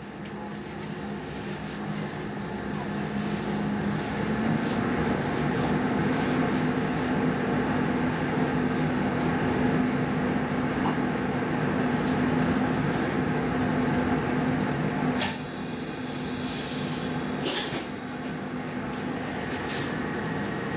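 X10 electric commuter train heard from inside the car: a steady electrical hum with a low drone and a rushing noise that builds over the first few seconds, then drops away sharply about fifteen seconds in, followed by a few clicks.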